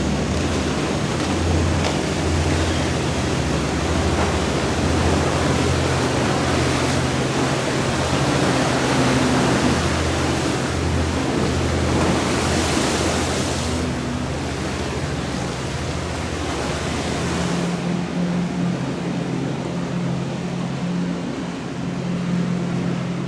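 Powerboat engines running low and steady over a loud rush of water and wind. About eighteen seconds in the rush thins and the engine hum shifts to a higher tone.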